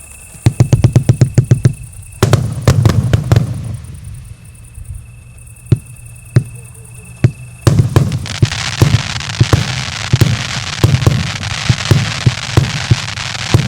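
Multi-shot fireworks cake firing comet shots: a fast run of launch thumps, then a spell of scattered single bangs. From about eight seconds in, dense crackling from the crackle effects fills in under continuing launches.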